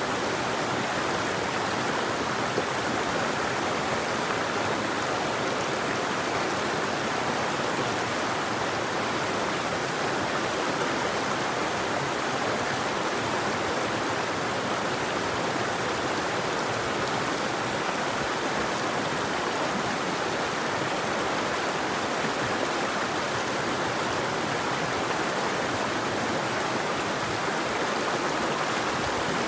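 River water flowing, a steady, even rushing with no change and no birdsong.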